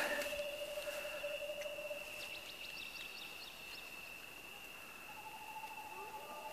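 Quiet outdoor ambience with a steady high-pitched tone and a lower hum, and a brief run of quick ticks about two seconds in.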